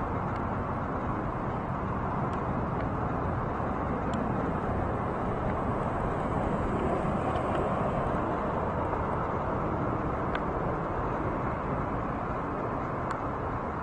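Steady, even outdoor rumble of distant engine and traffic noise, with a few faint ticks.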